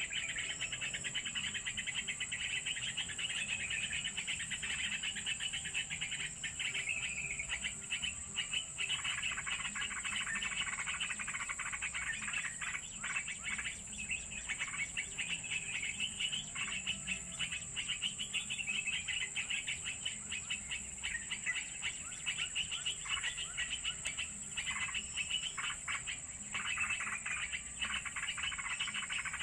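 Bird chirps and calls, fast and continuous, over a steady high-pitched hum.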